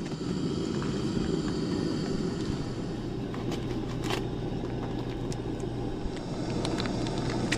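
A steady low rushing hum with a faint steady tone under it, like a running fan or burner, and a few light clicks and taps.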